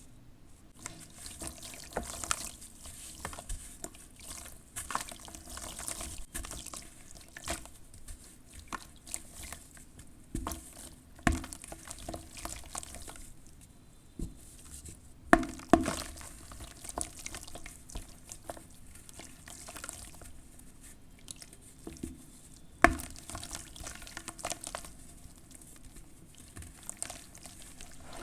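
Crunchy charcoal ash being dipped in water and crumbling: a wet, crackling fizz of many small crackles, with a few sharper snaps about halfway through and another later on.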